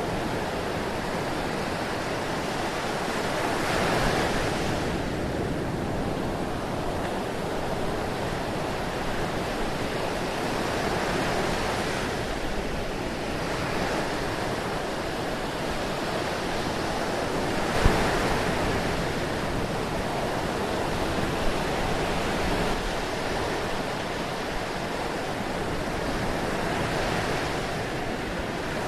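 Ocean surf: a steady wash of waves with a broader swell breaking every several seconds. A single sharp click sits in the middle, the loudest moment.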